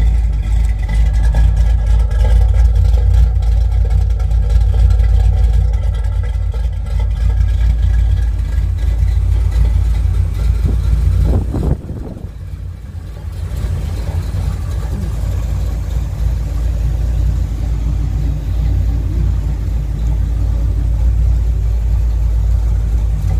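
1974 Corvette Stingray's 350 V8 running at a steady idle through a Flowmaster exhaust, which the owner thinks sounds like it might have a cam. It drops in level about halfway through and stays a little quieter.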